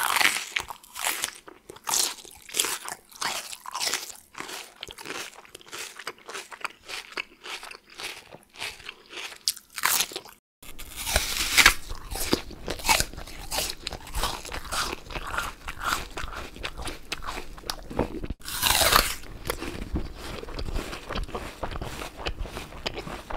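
Close-up biting and chewing of crunchy food: a dense run of crisp crunches. About ten seconds in it breaks off and a second take begins, with a low rumble under the chewing and loud bites near its start and again about eight seconds later.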